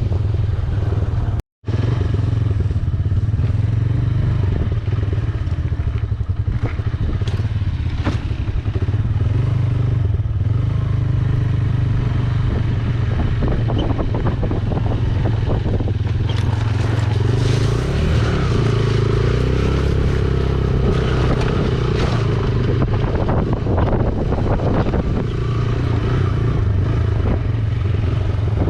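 Yamaha YBR125G single-cylinder motorcycle engine running steadily under way, with road and wind noise; the engine pitch rises a little past halfway. The sound cuts out completely for a moment about a second and a half in.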